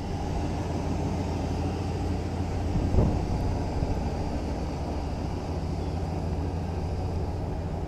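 1997 Ford F450 bucket truck's engine running steadily, with one brief knock about three seconds in.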